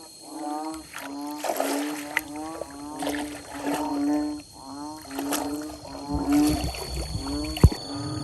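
A rapid series of pitched animal calls, about two a second and overlapping, with a low rumble in the second half and a sharp click near the end.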